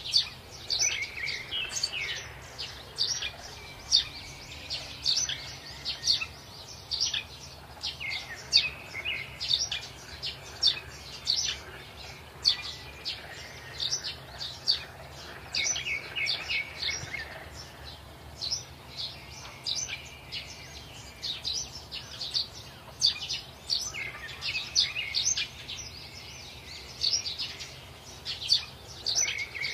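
Small birds chirping: short, high chirps, a couple a second, with brief falling calls now and then.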